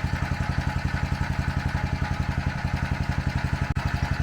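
Small gasoline engine of a pressure washer running steadily, with an even beat of about nine pulses a second.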